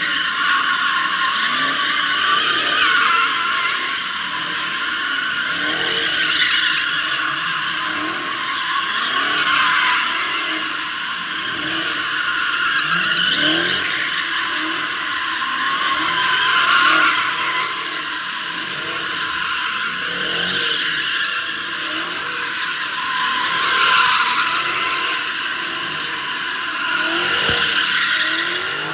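Car tyres squealing continuously, with an engine revving up again and again underneath, every second or two.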